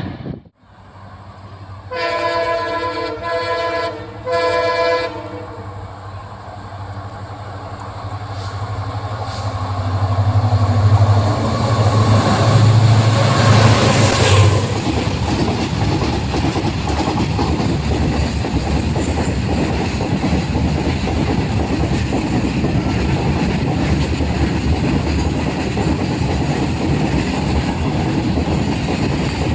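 A passing Indian Railways train. The locomotive's horn sounds three times in quick succession. Then the locomotive's rumble builds as it comes close, drops off sharply about fifteen seconds in, and gives way to the steady rolling noise of the cars going by on the rails.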